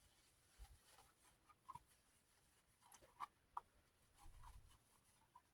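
Near silence with a few faint, scattered clicks and light scratching, the sound of a desk fan's parts being handled.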